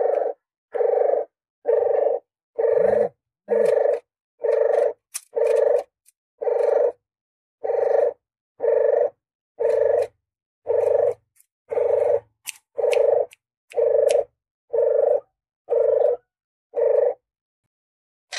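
A puter geni dove's call: a long run of short, evenly spaced coos, about one and a half per second, each the same low hoarse note. The coos stop about a second before the end. The run is used as a lure call to draw doves in for hunting.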